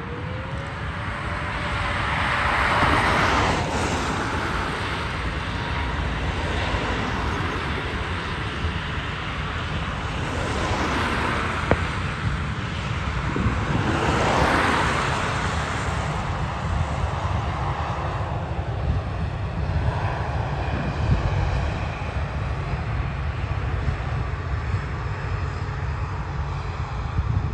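Jet airliner engines at an airport: a steady low rumble with several louder swells of jet noise.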